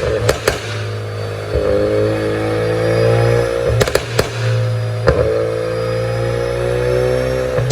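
2019 Ford Mustang 2.3 EcoBoost's turbocharged four-cylinder engine, tuned for pops, being blipped twice from idle. Sharp exhaust pops crack as the revs drop, a quick pair near the start and a burst of three about four seconds in.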